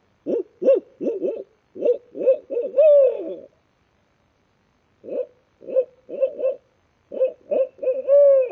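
A man imitating a barred owl's hoot with his own voice, no call: two rhythmic phrases of short hoots, each ending in a longer hoot that slides down in pitch, the 'who cooks for you-all' owl locator call of turkey hunters.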